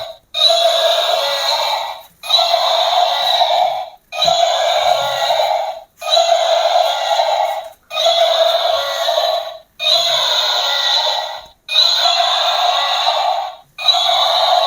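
A toy's recorded electronic sound effect played through a small speaker, repeating in a loop: the same raspy call about a second and a half long, starting again roughly every two seconds after a brief gap.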